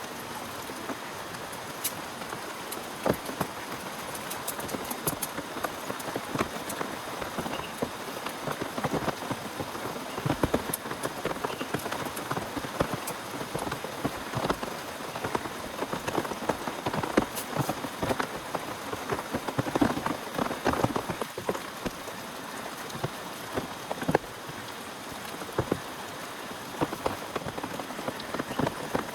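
Heavy rain: a steady hiss, thick with many sharp taps of drops striking a nearby surface.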